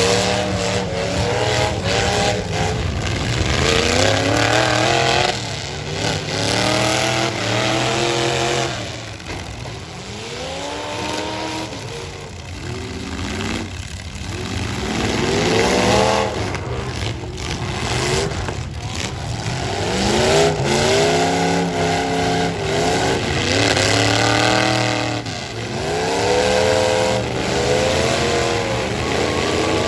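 Engines of full-size stock pickup trucks in a demolition derby revving hard, their pitch climbing and dropping again and again as the trucks accelerate and back up between hits.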